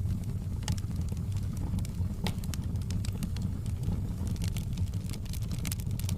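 Wood fire in a fireplace crackling: sharp, irregular pops and snaps, several a second, over a steady low rumble.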